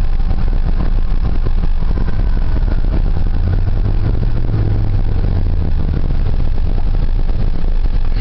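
Ford 4.9 L (300 cu in) straight-six engine running steadily as the 1990 F-150 drives in four-wheel-drive low range. It makes a steady low drone, a little stronger about halfway through.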